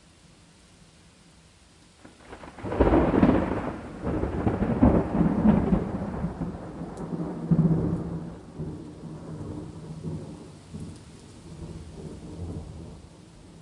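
Thunder during steady rain: faint rain hiss, then a loud clap about two and a half seconds in that rumbles on with several swells and slowly dies away.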